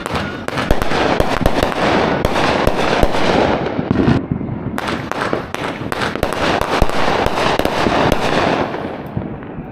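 Aerial consumer fireworks going off in quick succession: dense crackling and popping with sharp bangs, dipping briefly about four seconds in and again near the end.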